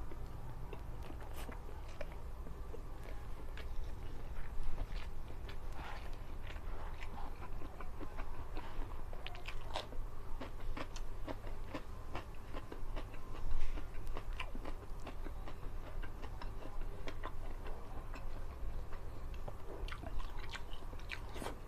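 Close-miked chewing of a mouthful of rice and side dishes: soft wet smacks and clicks at irregular intervals, with a few louder bites and crunches.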